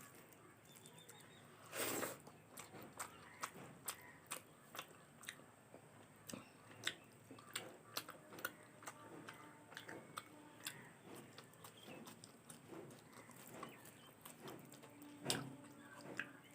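Close-miked chewing and eating: many small irregular mouth clicks and smacks, with a couple of louder bites about two seconds in and near the end.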